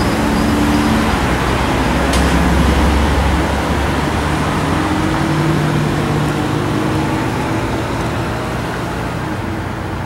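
Motor vehicle engine running with heavy road noise, its low hum drifting in pitch as the speed changes. It is loudest a couple of seconds in and eases off toward the end.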